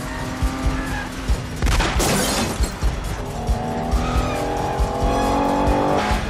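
Car engines running hard at speed with tyre squeal, a sudden rushing burst about two seconds in, and a rising engine note through the second half.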